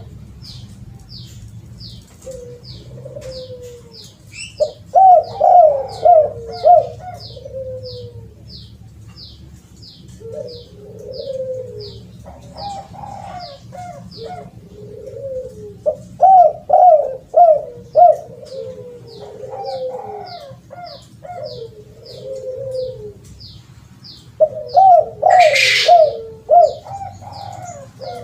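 Spotted dove (terkukur) cooing in repeated rolling phrases, several series of coos with short pauses between them. Behind it a high, short chirp repeats about twice a second, and a brief hissy burst comes near the end.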